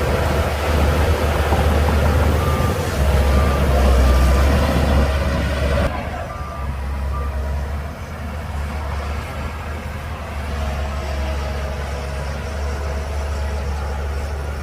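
Shantui DH17C2 bulldozer's diesel engine running hard with a deep steady drone, the clatter easing suddenly about six seconds in, and a reversing alarm beeping in two short runs.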